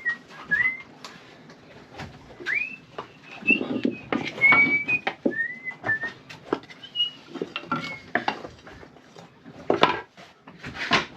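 A person whistling a tune, with held and sliding notes, over a run of sharp knocks and clatter from things being handled, the loudest knocks near the end.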